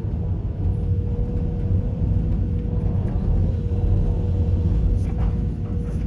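Six-wheel dump truck's diesel engine running under way: a steady low rumble with a thin, even whine above it.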